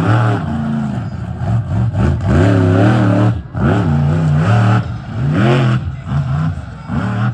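Monster truck engine revving hard over and over, its pitch climbing and falling about six times, with a brief lift off the throttle about three and a half seconds in.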